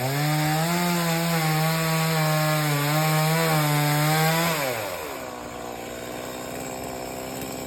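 Chainsaw revved to full throttle and cutting wood for about four and a half seconds, its pitch wavering slightly under load. It then drops back to a steady idle.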